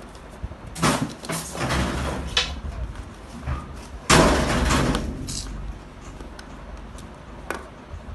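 Handling noise during wiring work: several short bursts of clatter and scraping, the loudest about four seconds in, with a few small clicks.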